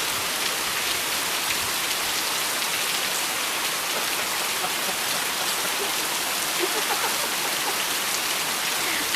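Steady rain falling, an even hiss of drops spattering on surfaces.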